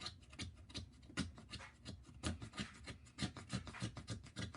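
Rapid, uneven scraping and rubbing strokes on wood and bark, several a second.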